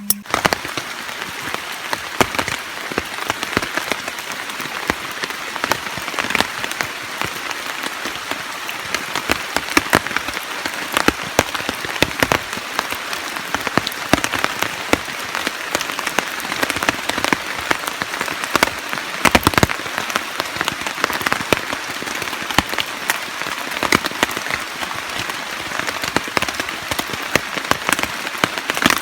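Steady rain, with many individual drops ticking sharply against a surface close by, and one louder knock about two-thirds of the way through.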